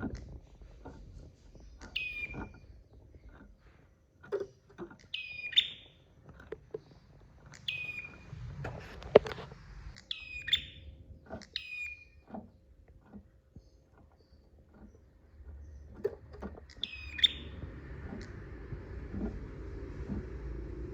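Prenjak (prinia) calling: sharp, high notes that fall in pitch, repeated every two to three seconds, with a gap near the middle, among scattered short clicks.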